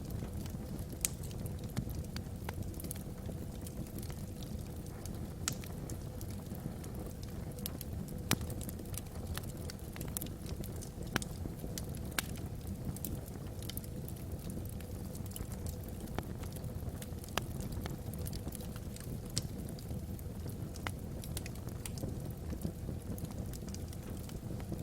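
Wood fire burning in a fireplace, with irregular sharp crackles and pops from the logs over a steady low rush.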